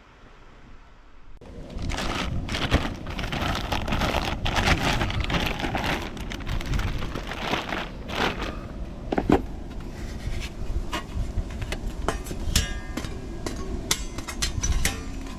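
Crackling with many small sharp clicks over a low rumble, starting about a second and a half in; dense at first, then sparser from about eight seconds on.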